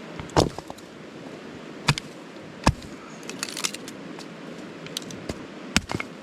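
Irregular sharp knocks and snaps of sticks and firewood being handled, about five loud ones with a cluster of small clicks midway, over a steady rush of running creek water.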